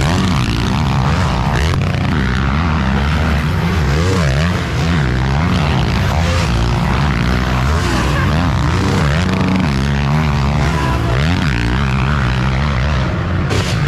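Several motocross bikes racing around a track, their engines revving up and dropping back over and over, layered into a loud continuous engine din.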